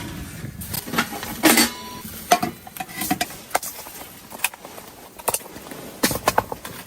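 Irregular, scattered knocks and clinks of hard objects being handled, some sharp, with a few brief faint ringing tones partway through.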